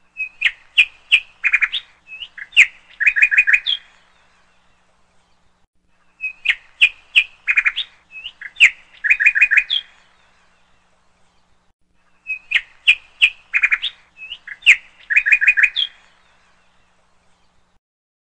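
Birdsong: a phrase of sharp chirps and quick trills, about three and a half seconds long, repeated three times in exactly the same form with pauses of about two seconds between.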